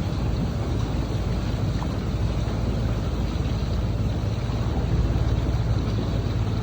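Steady low rumble of a small tour boat under way, its motor running evenly with water and wind noise.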